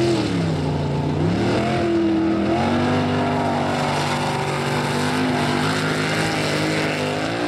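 Off-road race truck's engine at high revs: the pitch dips early, climbs back about two seconds in, then holds high and steady, with a short rise and fall near the end.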